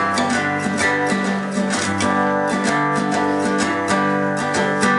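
Acoustic guitar strummed in a steady rhythm, playing the introduction of a song.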